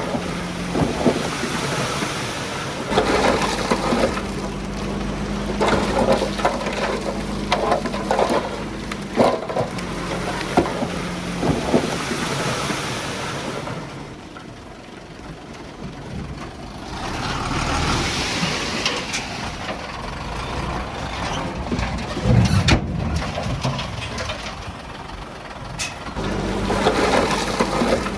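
Diesel engine of heavy earthmoving machinery running, with stones crunching and clattering as they are pushed or dumped. The engine and clatter drop back a little past halfway, then rumbling and a few sharp knocks follow, and the engine hum picks up again near the end.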